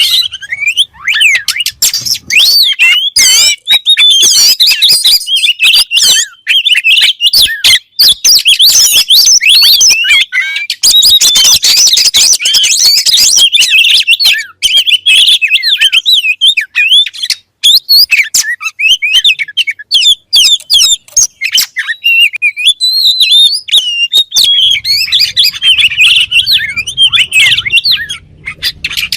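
Oriental magpie-robin (kacer) singing loudly and continuously: a rapid, varied run of whistles, chirps and sharp clicking notes with hardly a pause.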